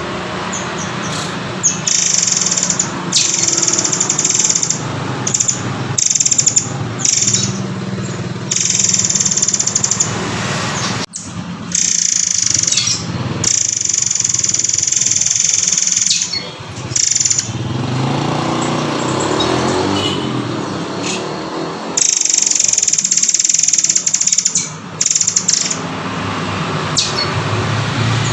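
Recorded song of a murai air (murai kopi) bird: loud, high-pitched phrases repeated in runs with short breaks, over steady background noise.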